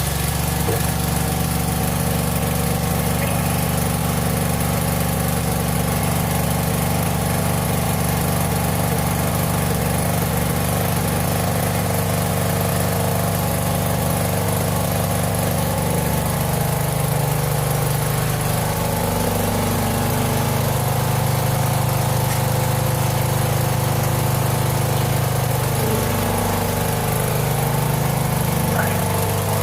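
Briggs & Stratton 12.5 hp lawn tractor engine running steadily, its speed rising and falling a little in the second half.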